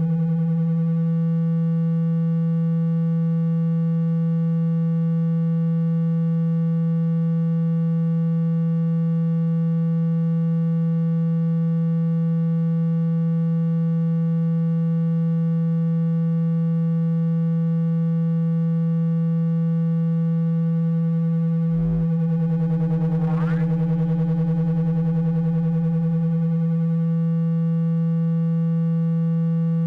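A steady, low electronic buzzing tone with overtones, a water-ejection sound played to shake water out of a phone speaker. About 22 seconds in there is a click, and a brief rising sweep passes over the tone.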